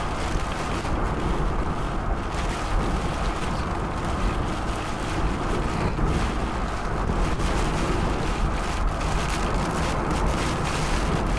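Steady, loud rumble of high wind buffeting a moving vehicle, mixed with road noise.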